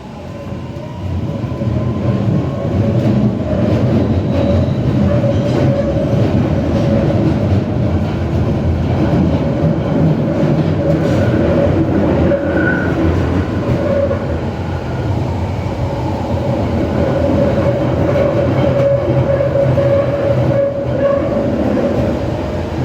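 Waterloo & City line 1992 stock tube train running loudly, a dense rumble with a steady squeal over it that swells about a second in and holds.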